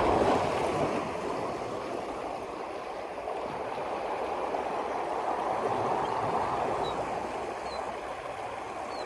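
Steady rushing and lapping of moving water, with a few faint, short high chirps in the second half.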